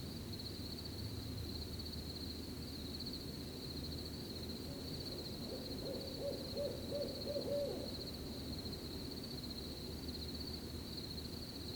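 An owl hooting, a quick run of about six short hoots near the middle, over a steady pulsing cricket chirp and a low rustling background.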